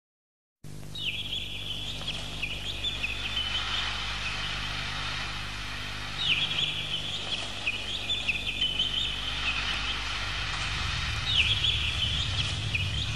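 Birds calling: bursts of high twittering chatter about every five seconds over a low, steady hum. A low rumble builds near the end.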